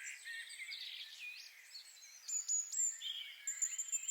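Several small birds singing and chirping at once: quick overlapping chirps, trills and thin high whistles. The loudest are a few sharp high whistles about halfway through and again near the end.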